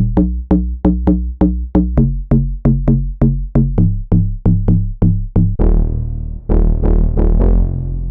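Synthesizer bass presets made in Xfer Serum 2, with no other instruments: a fast riff of short, punchy repeated notes, about three or four a second. About five and a half seconds in it changes to longer, fuller bass notes with brighter attacks.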